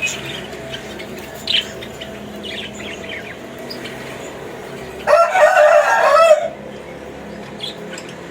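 Cockatiels chirping in short, high calls, and a rooster crowing once about five seconds in, a single call lasting over a second that is the loudest sound.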